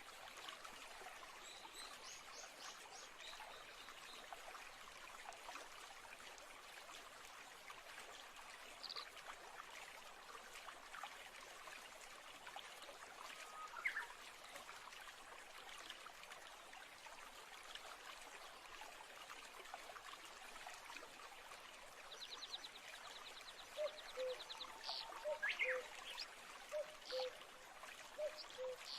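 Stream flowing with a steady trickle, with birds calling over it: a high trill near the start, a single rising chirp about halfway, and near the end another high trill and a run of short low notes.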